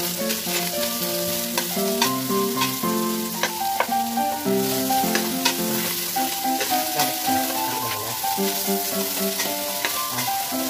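Shredded chicken and bouillon cubes sizzling in oil and butter in a stainless steel pot while a metal spatula stirs and mashes them, with irregular scrapes and clicks of the spatula on the pot. Background music with held notes plays over it.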